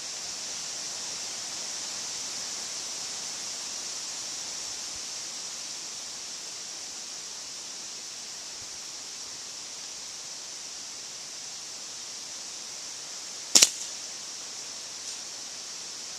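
A single shot from a .177 QB78 air rifle running on high-pressure air: one sharp crack about three-quarters of the way through, over a steady high hiss.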